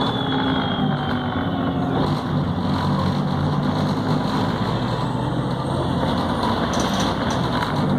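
Volvo B7RLE city bus's diesel engine and Voith automatic gearbox running under way, heard from on board, the engine note rising and falling as the bus drives.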